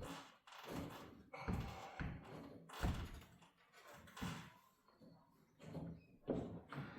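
Irregular knocks and clunks of metal parts as a broken garage door torsion spring is worked along its steel torsion shaft.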